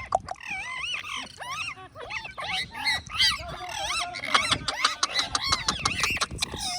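Parrot calling and chattering: a fast stream of short whistles and squawks that swoop up and down in pitch, mixed with sharp clicks.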